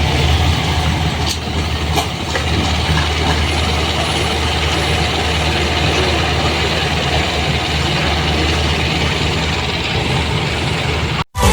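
Isuzu dump truck's diesel engine idling steadily, with a couple of faint clicks early on. The sound cuts off abruptly near the end.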